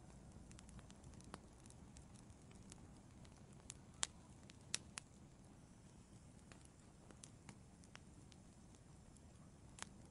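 Wood fire crackling in an outdoor fireplace: faint, irregular sharp pops over a low steady background, the loudest pop about four seconds in.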